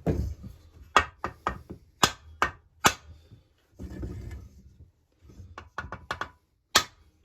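Copper hammer tapping on a freshly assembled Husqvarna 346XP chainsaw crankcase to loosen up the crankshaft bearings and relieve stress in them. It gives a dozen or so sharp knocks in uneven clusters, with a pause in the middle.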